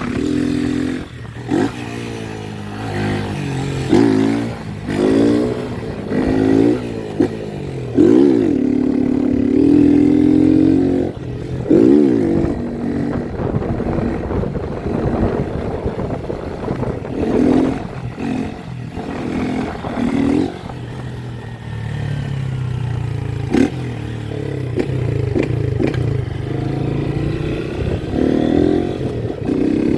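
Motorcycle engine revved hard again and again, its pitch climbing and dropping in repeated swells, the loudest stretch about 8 to 12 seconds in.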